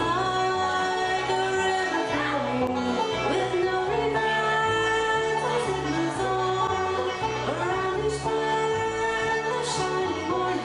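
Bluegrass combo playing live: double bass walking a steady bass line under plucked strings and a sustained melody with notes that slide in pitch.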